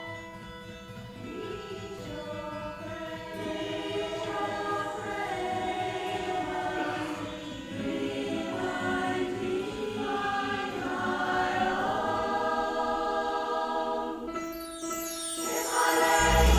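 Women's choir singing live in held, shifting chords over a low regular pulse, growing louder near the end.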